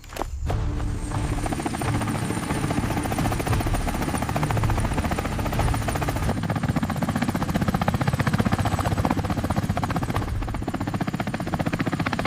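Helicopter running with its rotor blades chopping in a fast, steady beat, coming in abruptly just after a short silence, with background music underneath.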